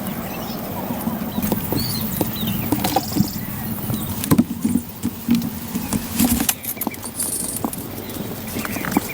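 A run of irregular light knocks and taps, some sharper than others, over a constant low background.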